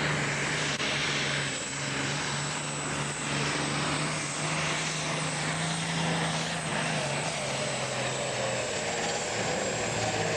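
Engine of a tractor-pulling machine running at a steady low speed, a deep even hum that holds one pitch, with a steady high whine on top.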